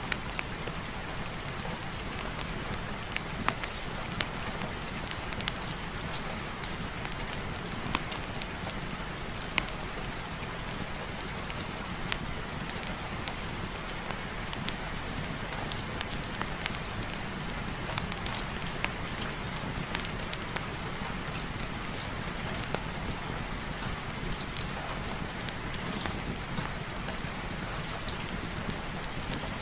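Steady heavy rain falling, with scattered sharp clicks and ticks through it.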